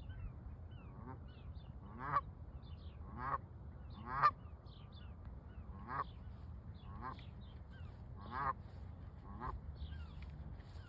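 Canada geese honking: about half a dozen loud honks at irregular intervals, each a second or more apart, with fainter high chirping calls in between.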